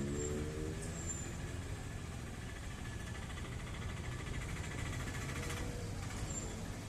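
A vehicle engine running steadily, a low hum that holds at an even level.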